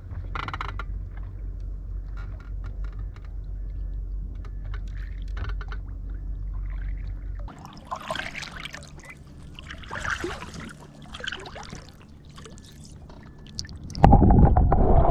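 Water splashing around the boat as a hooked king salmon is worked toward the landing net, in irregular splashes from about eight seconds in, over a steady low rumble during the first half. A loud sound lasting about two seconds comes near the end.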